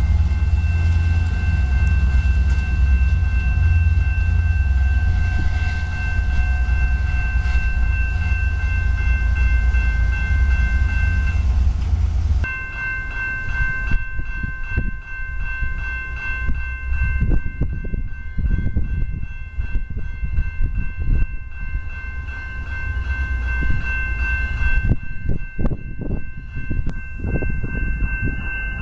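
Commuter train passing: deep locomotive rumble under several steady high-pitched tones. After a cut about twelve seconds in, the rumble is lighter and irregular knocks of wheels over rail joints come through beneath the same steady tones.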